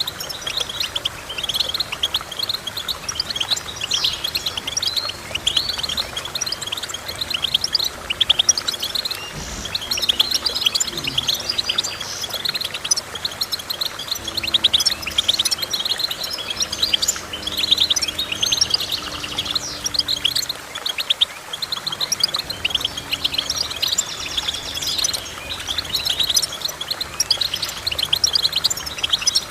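Goldfinch song: continuous rapid, high twittering chirps and trills.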